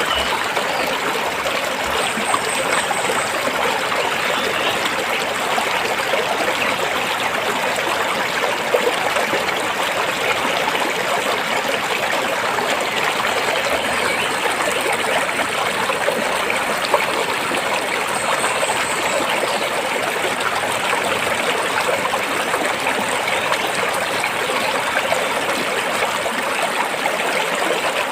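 A rocky stream flowing steadily: an even, continuous rush and babble of water over and between stones.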